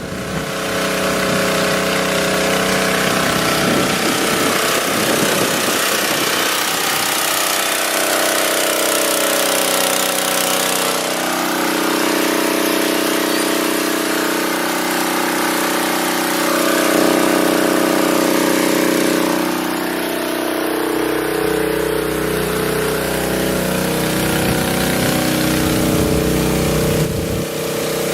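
Engine running at a steady speed, with its pitch shifting up and down several times.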